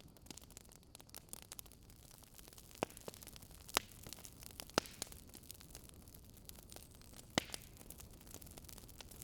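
Wood fire crackling: sparse, irregular sharp pops and ticks over a soft steady hiss.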